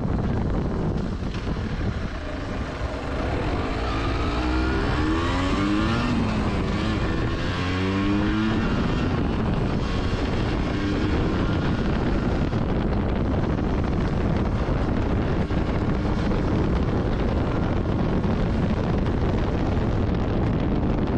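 Yamaha TDR 125 two-stroke single-cylinder motorcycle engine running on the move under heavy wind rush on the microphone. A few seconds in, the engine note climbs in pitch several times in a row as the bike accelerates, then settles back into a steady note mixed with the wind.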